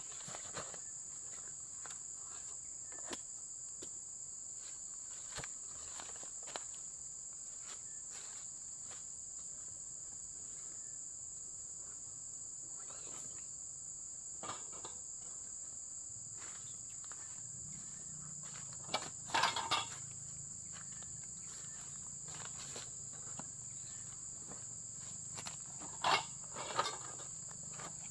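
Steady, high-pitched chirring of crickets or other insects, with scattered small clicks. Two short clusters of louder knocks or rustles come about two-thirds of the way in and again near the end.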